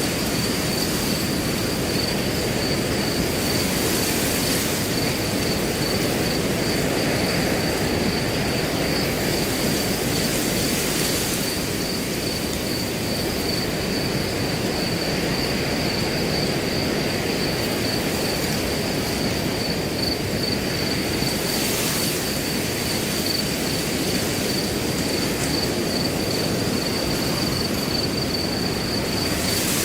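Wind blowing steadily through grass, with a few brief stronger gusts, under a continuous high, pulsing cricket trill.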